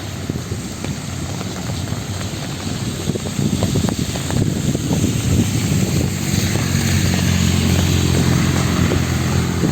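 A motor vehicle's engine running, growing louder from about three seconds in and staying loud to the end as it comes close.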